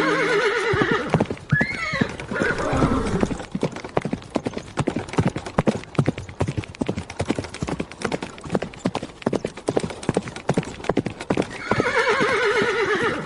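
A horse galloping: a fast, continuous clatter of hoofbeats, with whinnying at the start and again near the end.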